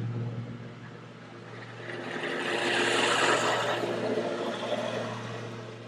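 A passing vehicle: a broad rushing noise that swells to a peak about halfway through and fades away, over a steady low hum.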